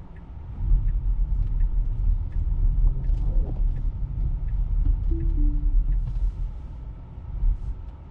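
Low rumble inside a Tesla's cabin, with the turn-signal indicator ticking about every 0.6 seconds as the car signals a right turn. A short two-note tone sounds about five seconds in.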